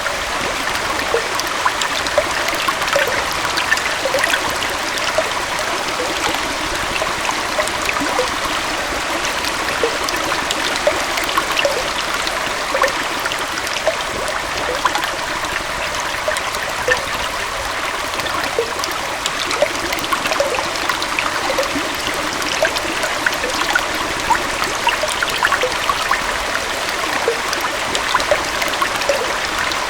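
Gentle waterfall flowing into a stream: a steady, even rush of water with many small gurgles and splashes over it.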